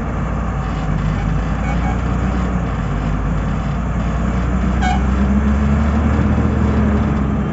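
Heavy diesel engine running steadily, working harder about five seconds in as its pitch and loudness rise a little, then easing back near the end.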